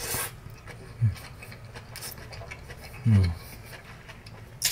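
A man chewing a mouthful of braised collard greens, with small wet clicks. He gives a short falling hum of enjoyment about a second in and a longer, louder one about three seconds in.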